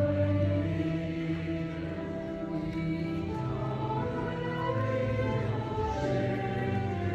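Many voices singing a slow hymn together, held notes changing every second or so over sustained low notes.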